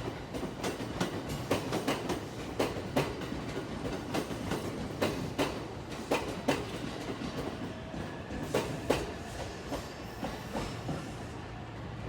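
A train passing a level crossing, its wheels clacking over the rail joints in a run of irregular sharp clicks, some in quick pairs, over a steady rumble. The clicks thin out and the rumble fades over the last couple of seconds.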